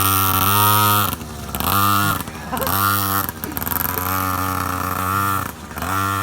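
Small mini motorbike engine running under throttle, its pitch rising and holding in surges of a second or two, dropping off briefly about four times as the throttle is let off and opened again.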